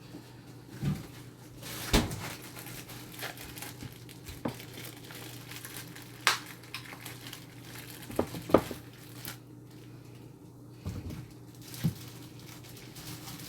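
Kitchen handling sounds: scattered, irregular knocks and clatter of dishes and utensils, with a few short rustles, over a steady low hum.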